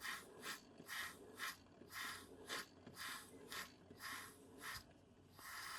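Small Retrol model beam steam engine chuffing slowly, about two short exhaust puffs of steam a second, as it runs low on steam pressure. The puffing stops about five seconds in, and a steady hiss of steam follows.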